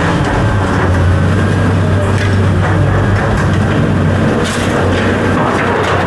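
Heavy equipment's engine running steadily with a low hum, with scattered knocks and clanks over it.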